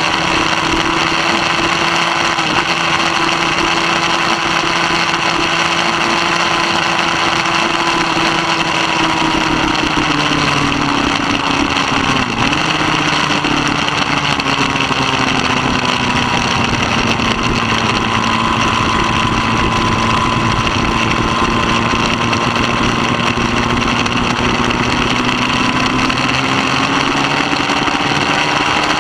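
Middleweight superbike engine running hard at high revs, loud and continuous. Its note falls slowly in pitch, with a brief dip and recovery about twelve seconds in and again near the end.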